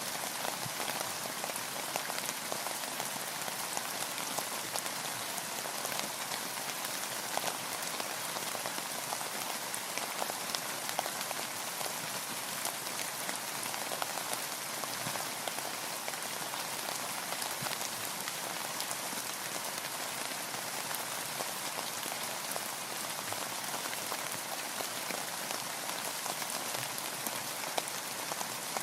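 Steady rain with a dense patter of individual drops, even throughout.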